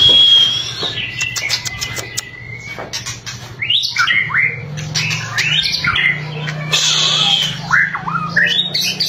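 White-rumped shama (murai batu) singing: a high whistle and a held note with a run of rapid crackling clicks (the 'kretekan'), then a stream of quick rising and falling phrases. A steady low hum runs underneath.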